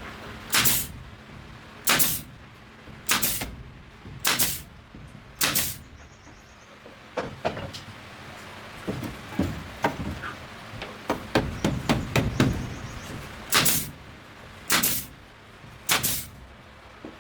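Repeated sharp strikes of a hand tool against something hard, about one every second or so: five in a row, then quieter knocking and clatter, then three more strikes near the end.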